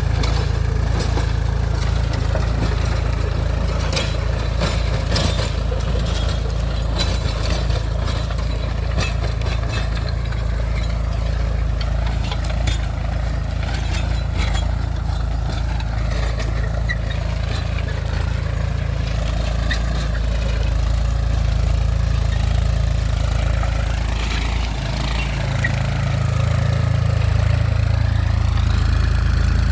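Mahindra 275 DI TU tractor's three-cylinder diesel engine running steadily, its note shifting about 25 seconds in. Scattered light clicks and rattles come in the first several seconds.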